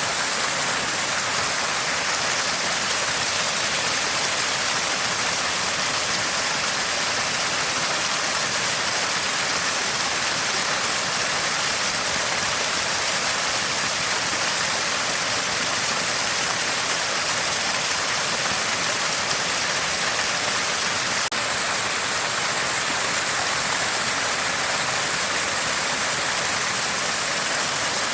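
Water gushing from a small spring, a steady, even gurgling and splashing.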